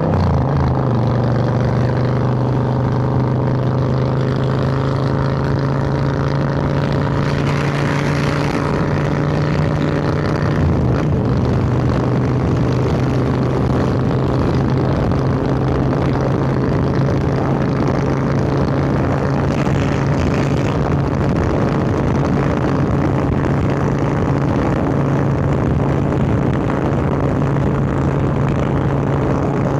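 Harley-Davidson Sportster 1200 Roadster's air-cooled V-twin running at steady cruising revs through Vance & Hines Hi-Output Grenades 2-into-2 exhaust, heard from a microphone at the rider's collar.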